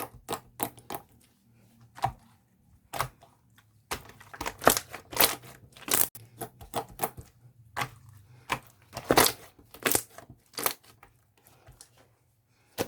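Jiggly slime squeezed and pressed by hand, giving irregular crisp pops and crackles, a few a second with short pauses between handfuls.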